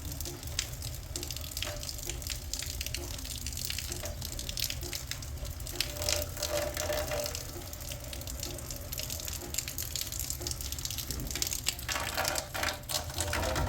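Water running and splashing steadily, with many small drips and splashes throughout.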